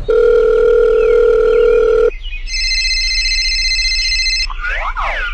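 Telephone sound effect: a steady dial tone for about two seconds, then a ringing tone for about two seconds, with a short sliding tone near the end.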